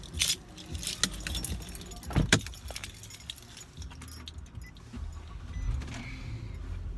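Car keys jangling with several sharp clicks and knocks inside a car, the loudest a little over two seconds in. A steady low rumble sets in about five seconds in.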